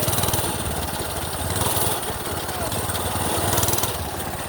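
A minibike's small gas engine running steadily, a low continuous throb.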